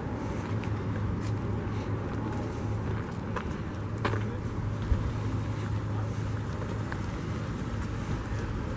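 Outdoor background noise with a steady low hum, such as a vehicle idling nearby, and a couple of faint clicks about four and five seconds in.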